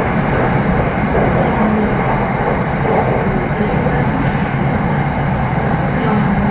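Steady running noise of an SRT Red Line electric commuter train heard from inside the car, at cruising speed, with a faint brief high squeal about four seconds in.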